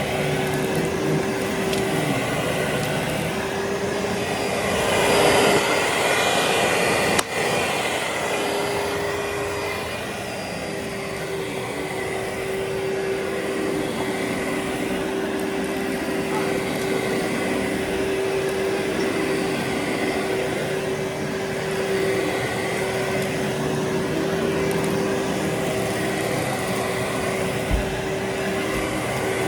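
Vacuum cleaner running steadily over carpet, a constant hum under a rushing noise. It gets louder for a couple of seconds about five seconds in, and there is a single sharp click about seven seconds in.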